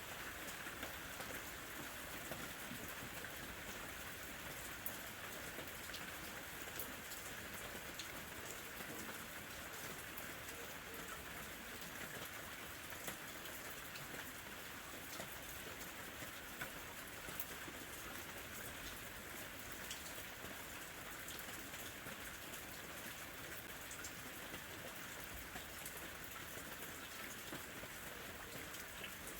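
Steady summer rain falling, an even hiss with scattered individual drops ticking on a surface.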